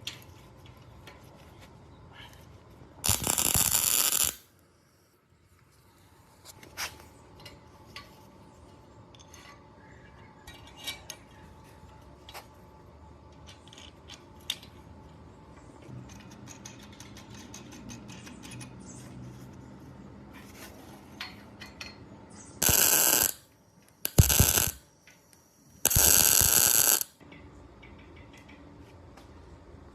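Metal tools and parts clinking and scraping during workshop restoration work, with scattered sharp clicks. Four short, loud bursts of noise, each about a second long, come once near the start and three times near the end.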